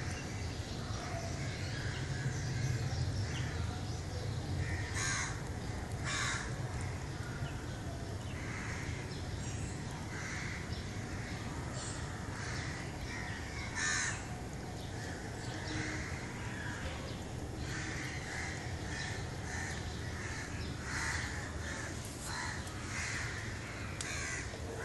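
Birds calling repeatedly, short calls coming every second or so, over a steady low rumble.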